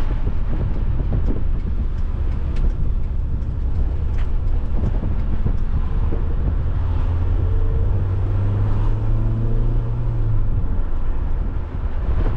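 Alfa Romeo 156's 1.8 Twin Spark four-cylinder engine running on the move, over road and wind rumble. Its note stands out clearer and rises slightly in pitch for about three seconds past the middle.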